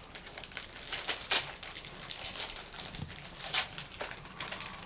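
Wrapping paper being torn and crinkled as presents are unwrapped, in a series of short rustling rips, the loudest about a second in.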